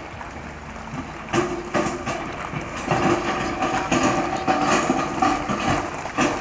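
Dump truck running as it tips its load, its engine note rising and falling, with metallic clanks and rattles several times.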